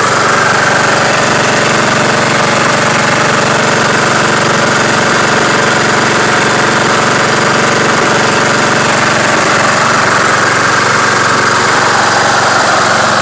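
Craftsman YT3000 lawn tractor engine running steadily at an even speed. The owner suspects a blown head gasket, with the engine burning oil.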